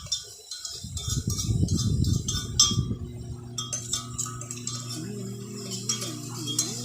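A metal spoon scraping and clinking against a cooking pot while stirring, with a low rumble lasting about two seconds, starting about a second in.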